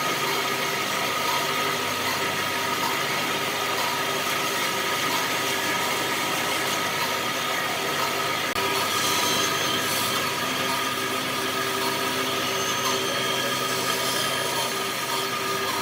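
A woodworking power tool running steadily, with a brief dropout about eight and a half seconds in.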